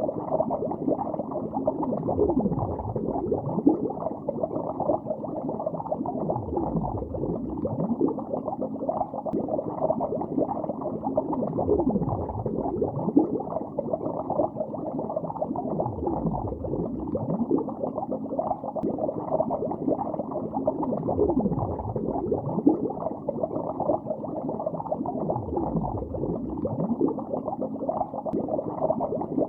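Underwater bubbling heard as a continuous, muffled stream of bubble pops and gurgles. Deeper swooping sounds recur about every four to five seconds.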